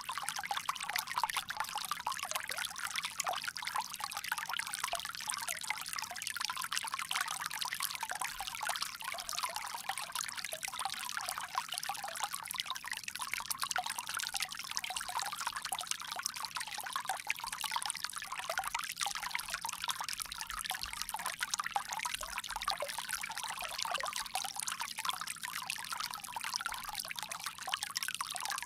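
Water pouring steadily from a bamboo spout: a continuous splashing trickle, bright and hissy with little low rumble.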